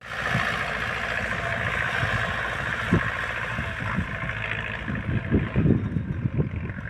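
Tractor engine running steadily while pulling a rotavator through the soil, with irregular low thumps coming in over the last couple of seconds.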